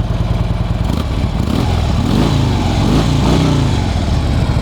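A 2011 Harley-Davidson Street Glide's 103 cubic inch V-twin idling through its factory exhaust. It is blipped twice in the middle, the pitch rising and falling each time, then drops back to idle.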